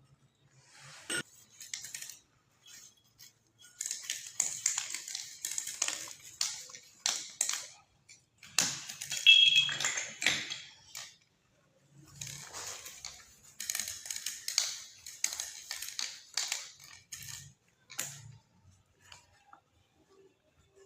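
Scraping, rubbing and clicking of hand work in two long bursts of several seconds each, with a few sharp clicks and knocks between them.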